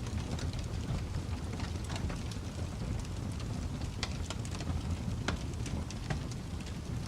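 Wood fire burning in a fireplace: a steady low rumble of the flames with irregular sharp crackles and pops, a cluster of louder pops about two-thirds of the way through.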